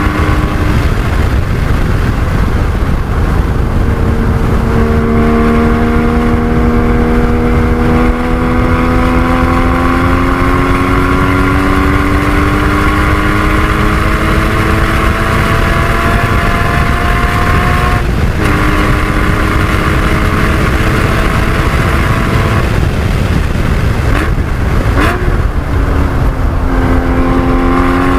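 Porsche 981 Cayman GT4's 3.8-litre flat-six pulling hard at speed, its pitch climbing slowly through a long straight, then dropping at an upshift about two-thirds of the way in. It eases off briefly and climbs again near the end, over constant loud wind and road rumble.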